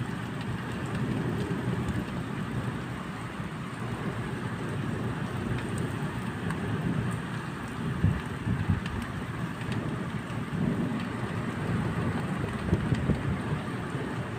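Steady rain falling, with low rumbles swelling up now and then from about eight seconds in.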